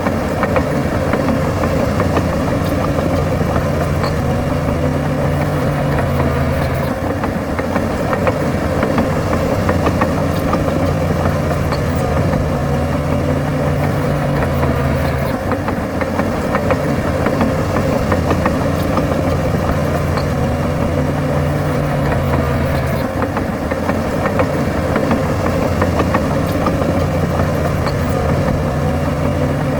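Bulldozer's heavy diesel engine running steadily. Its low note changes every few seconds as the load comes and goes while it works.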